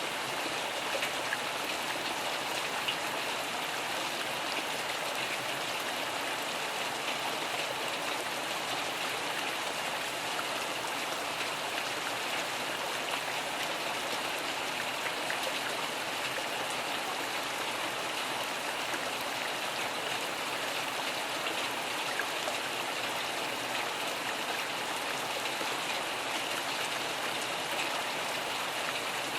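Steady rain falling, an even hiss with scattered drops ticking through it; no thunder.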